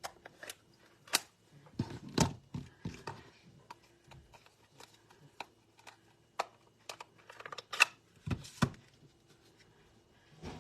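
Sharp taps and clicks of a rubber or clear stamp and an ink pad being handled and pressed on a craft table: inking a stamp and stamping onto cardstock. Irregular knocks, with louder ones about two seconds in and near eight seconds.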